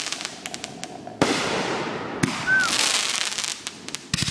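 Fireworks going off: a sharp bang about a second in and another about two seconds in, each followed by a long crackling hiss, with quick clusters of small cracks near the start and again near the end.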